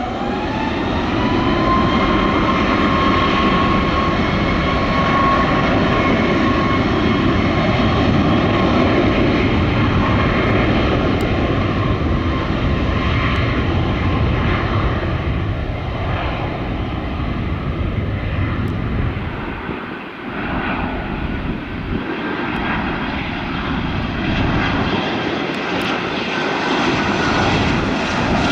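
Airliner engines running loud and steady, with a whine that rises in pitch during the first couple of seconds and then holds.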